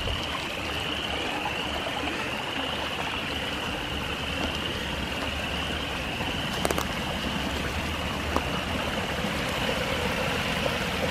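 Rain-swollen runoff stream rushing steadily down a wooded hillside, with a distant chorus of spring peepers as a steady high peeping band over it. A couple of faint clicks about two-thirds of the way through.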